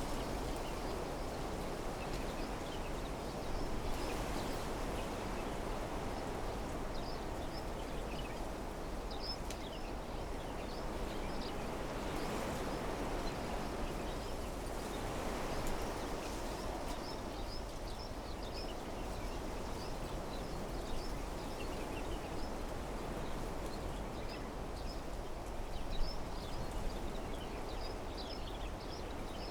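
Wind blowing through the trees of a desert meadow, a steady rushing noise, with small birds chirping briefly here and there, most often in the middle and near the end.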